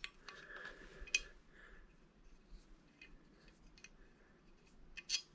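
Small metal door-latch parts clicking and scraping softly as they are handled and fitted together, with sharp clicks right at the start, about a second in, and a few together near the end.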